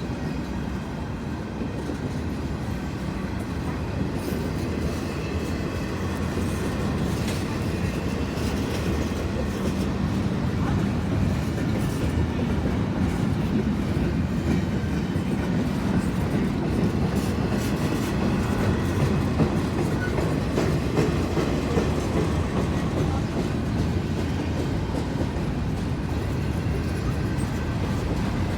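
Norfolk Southern freight train's cars rolling past with a steady low rumble, the wheels clicking over the rail joints now and then.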